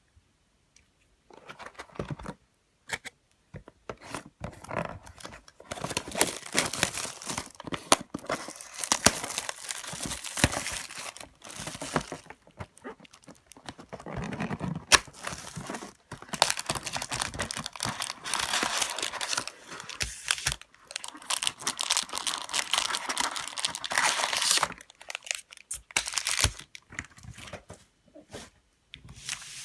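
Packaging of a trading-card box being torn open and crumpled: long stretches of tearing and crinkling wrapper with sharp crackles, broken by short quieter pauses.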